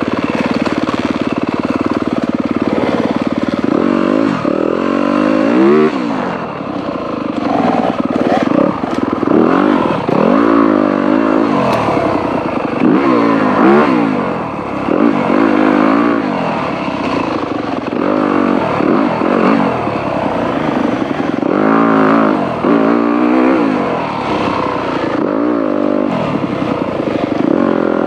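Dirt bike engine under repeated on-off throttle, its pitch rising and falling every second or two as it is ridden along a rough off-road trail.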